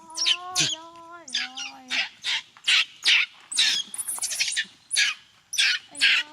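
Infant macaque crying in short, high-pitched screams, repeated two or three times a second.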